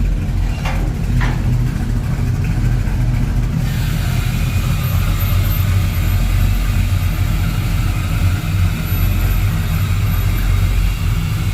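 Truck engine idling through its newly worked exhaust, a steady low rumble. A broad hiss joins in about three and a half seconds in.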